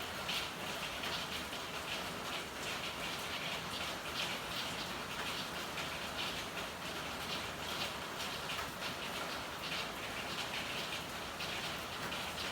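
Steady rain falling, with many irregular drips and splashes.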